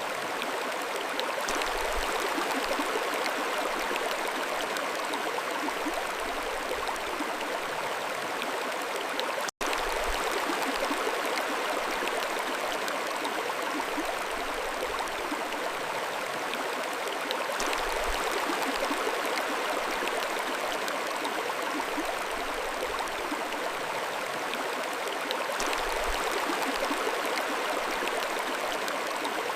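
Mountain stream flowing steadily, an even rushing and gurgling of water. The sound cuts out for an instant about ten seconds in, then carries on unchanged.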